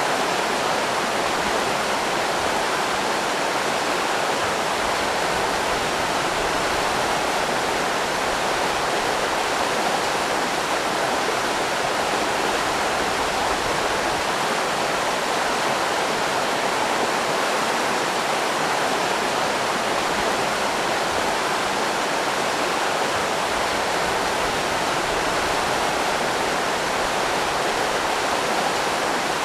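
River rapids rushing: a steady, unbroken roar of fast-flowing water over rocks.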